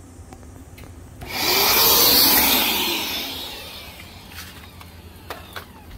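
A vacuum-cleaner motor switched on briefly, spinning up with a rising then falling whine over a rush of air, and winding down within about three seconds.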